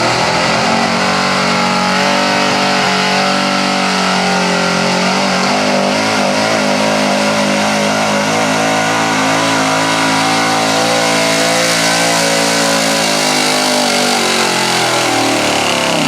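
Big-block V8 pulling truck's engine held at full throttle under heavy load as it drags the sled, its pitch steady and high, then sagging over the last few seconds as the truck bogs down at the end of the pull.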